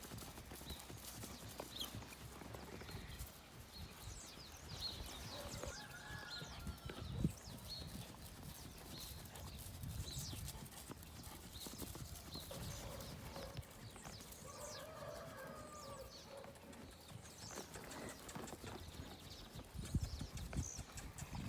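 Hoofbeats of a young Paint mare in early breaking, clip-clopping steadily, with heavier hoof knocks near the end.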